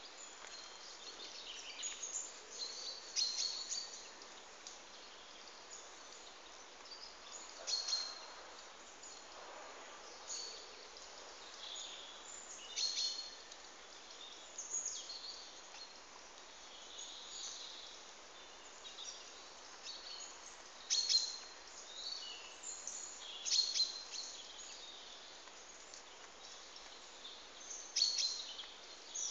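Small birds chirping and calling at irregular intervals, short high notes scattered throughout, over a steady faint hiss.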